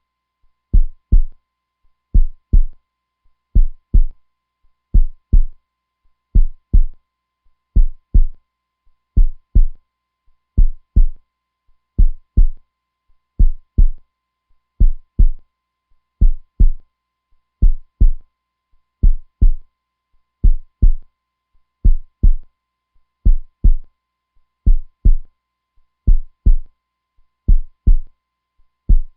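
Heartbeat sound: a steady 'lub-dub' of paired low thumps, about one beat every second and a half.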